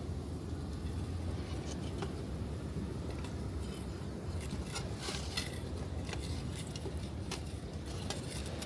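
Wood campfire crackling with scattered sharp pops, thickest about halfway through, over the steady low rush of surf on the beach.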